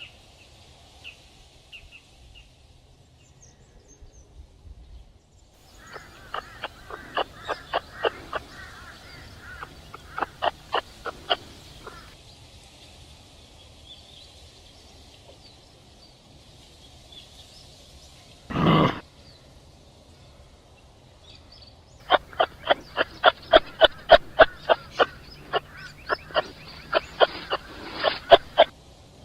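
Animal calls: two runs of short, sharp clucking notes, about three or four a second, with a single louder, longer call between them.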